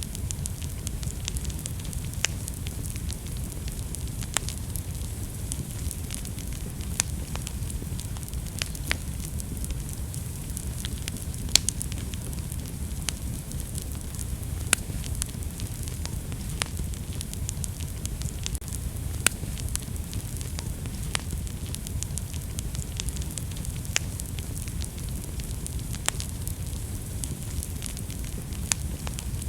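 Wood fire burning in a fireplace: a steady low rumble of flames with sharp crackles and pops at irregular intervals, a few of them louder.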